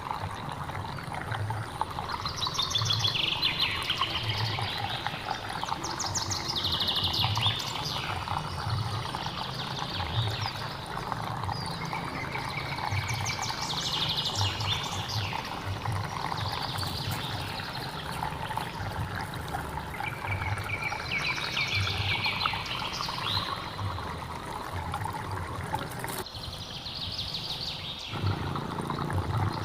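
Birds singing repeated trilling phrases every few seconds over the steady sound of running water. Near the end the water sound briefly cuts out and then returns.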